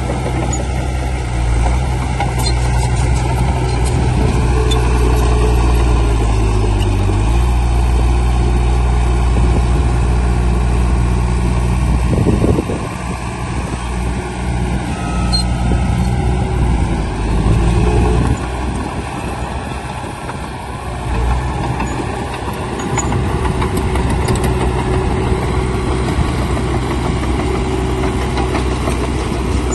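Heavy diesel engine of earthmoving machinery running steadily under working load, its note shifting as the load changes. There is a brief loud knock about twelve seconds in, after which the engine sound drops for a few seconds.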